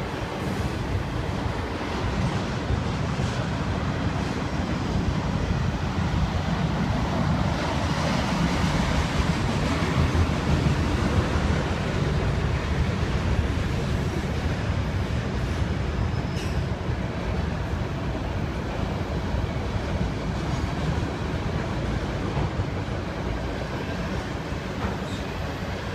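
Autorack freight cars rolling over a steel girder railway bridge, a steady low rumble of wheels and cars that swells a little in the middle and eases slightly near the end.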